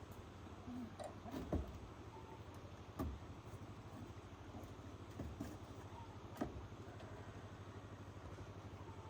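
Faint steady low rumble with a few light knocks, about one and a half, three and six and a half seconds in.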